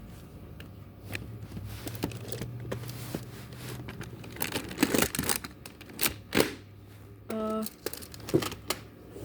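Handling noise: crinkling, rustling and sharp knocks of objects being moved about, with one short pitched call or vocal sound about three quarters of the way through.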